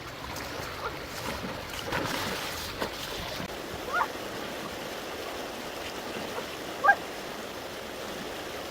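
Water running and splashing steadily, a little louder about two seconds in, with three brief high chirps spread through it.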